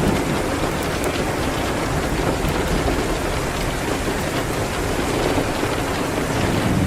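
Steady rain hitting a window, a dense even hiss, with a few faint crackles from a wood fire.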